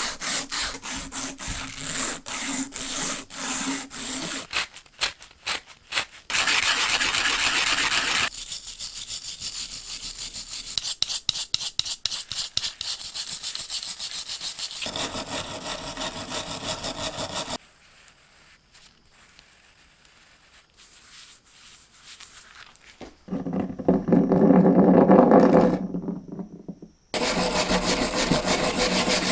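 Rhythmic hand scraping strokes, filing or sanding rust off the parts of an old hand drill, cut into several short stretches. It goes quiet in the middle, and a louder, deeper rasping stretch comes about three-quarters through.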